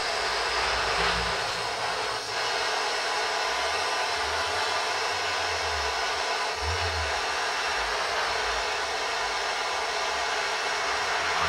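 Lit forge running with a steady rushing hiss as the knife blade is heated for hardening.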